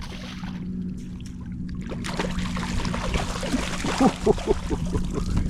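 Water splashing and trickling, heaviest with a few sharp splashes about four seconds in, over a steady low hum.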